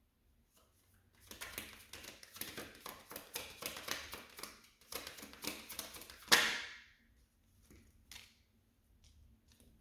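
Tarot cards being shuffled: a dense run of quick papery flicks for about six seconds, ending in one loud slap, then a few scattered light taps as the cards are handled.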